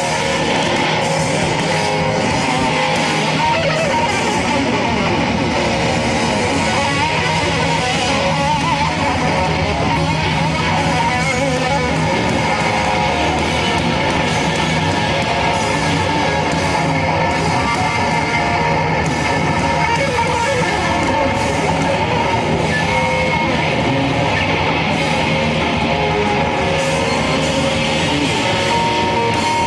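Rock band playing live, with strummed electric guitar to the fore, instrumental with no singing and at a steady, loud level throughout.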